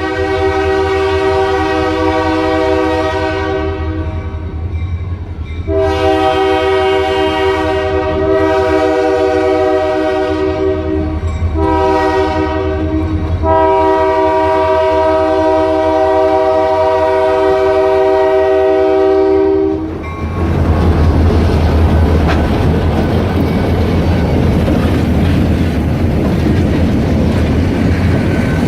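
Diesel freight train led by EMD SD40 locomotives blowing its multi-chime air horn in the grade-crossing pattern (long, long, short, long) over the steady drone of the diesel engines, then rumbling past with wheels clattering over the rail joints.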